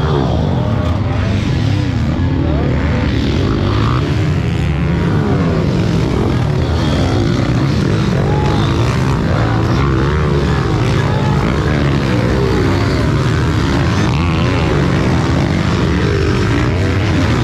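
Several small pit bike motorcycle engines running and revving at once, their pitches rising and falling.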